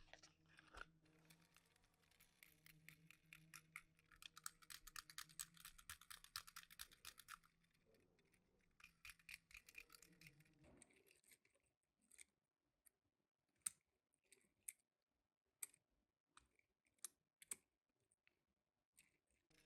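Faint handling noise of small hard objects: a few seconds of rapid light clicking and rustling, then a scatter of separate light clicks.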